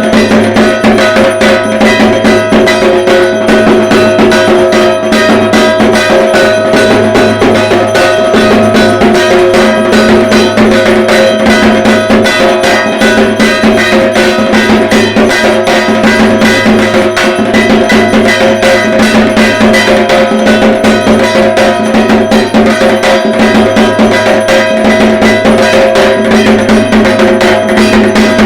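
Dhak drums played in a fast, continuous rhythm of Durga Puja drumming, with a steady ringing tone running underneath the dense strokes.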